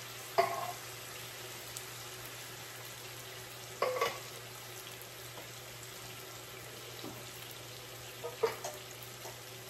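Steady sizzle of food frying in a skillet, with three short clatters of a utensil against the pan.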